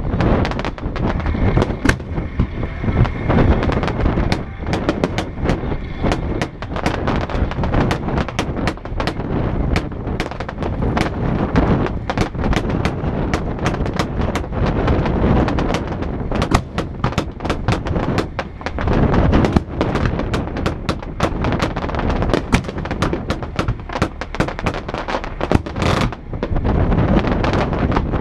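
Fireworks display: a dense, rapid volley of shell bursts and crackling reports, many bangs a second over a continuous rumble.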